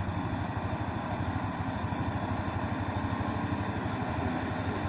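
A truck engine running steadily at low revs.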